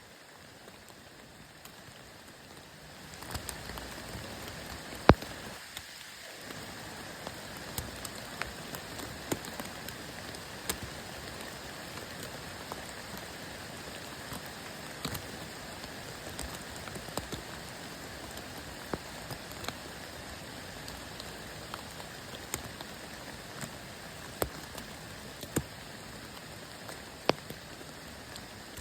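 Steady rain falling, with scattered sharp drops striking close by. The rain gets louder about three seconds in.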